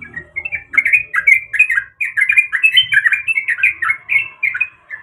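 Yellow-vented bulbul (trucuk) singing a fast, continuous run of bubbly chattering notes that rise and fall quickly; the phrase breaks off abruptly near the end.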